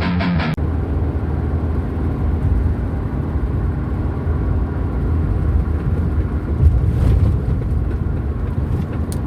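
Guitar intro music cuts off about half a second in, giving way to the steady low rumble of a car driving: engine and road noise, with a couple of faint ticks near the end.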